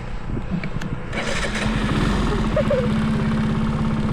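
Mini bike engine running, picking up in revs about a second in and then holding a steady drone.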